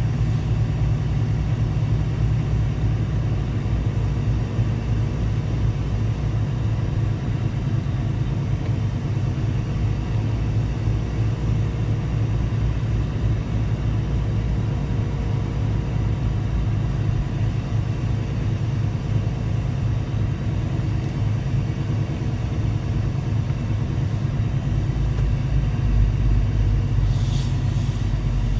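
Semi truck's diesel engine running steadily while driving, a low rumble with a steady engine hum. A brief hiss comes near the end.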